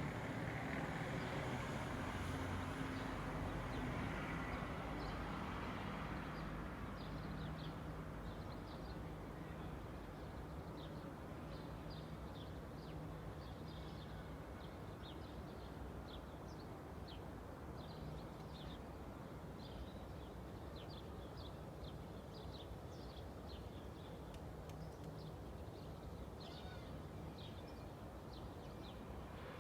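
A vehicle passing and fading away over the first few seconds, then small birds chirping over and over above a steady low hum of distant traffic.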